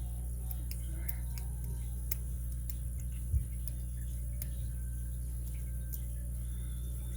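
Faint scattered ticks of a lock pick and tension wrench working the pins of a Master Lock padlock core, over a steady electrical hum, with one low thump about halfway through.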